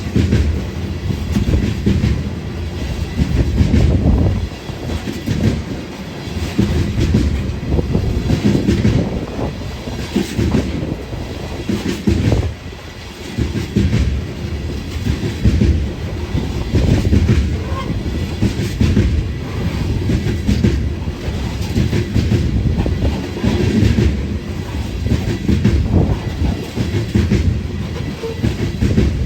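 Train passing close by: a steady rumble of rail cars, with wheels clacking repeatedly over rail joints.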